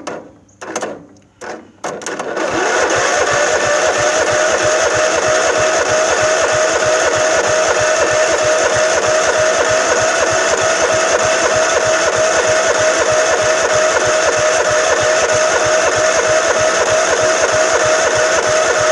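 The electric starter cranks the Craftsman LT1000's 15.5 hp Kohler engine for about sixteen seconds, spinning it over steadily with a starter whine, but it never fires: the engine has no spark. A few sharp clicks come just before the cranking begins.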